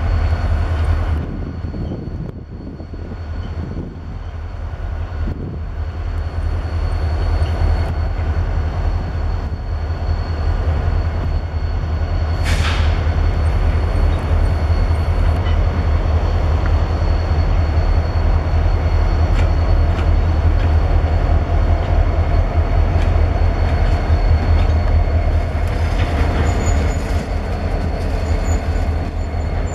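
A Canadian National freight train hauled by an SD70M-2 diesel locomotive, moving along the track with a steady low rumble of engine and rolling cars. There is one short, high wheel squeal about twelve seconds in.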